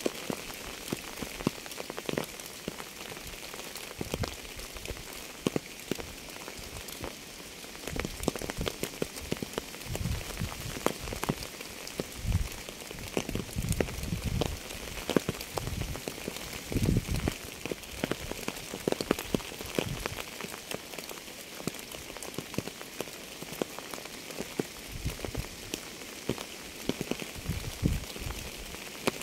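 Rain falling steadily, a constant hiss dotted with many individual drops tapping sharply on a surface, with heavier, deeper drips thudding in the middle stretch.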